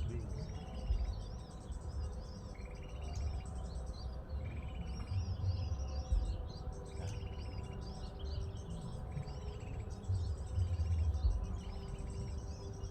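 Small birds chirping in quick high arched notes, with a short buzzy call that recurs every couple of seconds, over an uneven low rumble.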